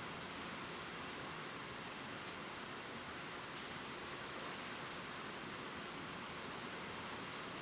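Steady gentle rain pattering on leaves, an even hiss with faint drop ticks scattered through it.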